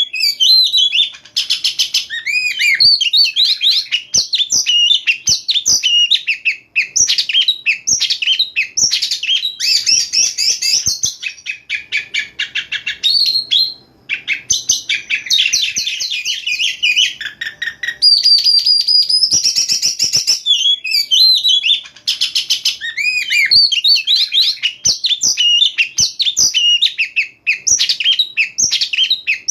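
Oriental magpie-robin (kacer) singing a loud, continuous, varied song of sweet whistles, slurred phrases and rapid chattering note strings, broken by short pauses a few times.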